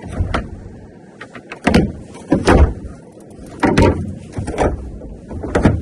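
A series of about six or seven knocks and thuds, irregularly spaced, from discarded items and boxes being moved and handled.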